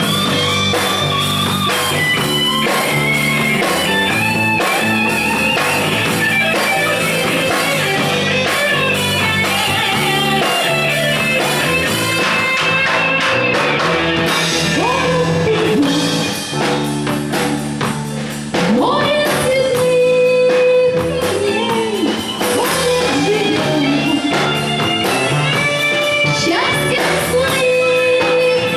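A live band playing a pop-rock song, with guitar and a singer. The music drops briefly about sixteen seconds in, then comes back louder.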